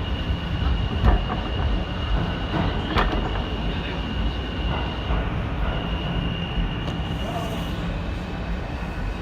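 New York City subway train running along the track, heard from inside the car: a steady low rumble with a thin, steady high-pitched whine over it, and a few sharp clicks.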